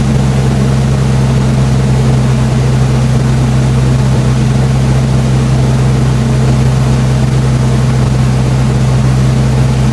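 Toyota 1JZ twin-turbo straight-six engine running loud and steady, its pitch unchanging throughout.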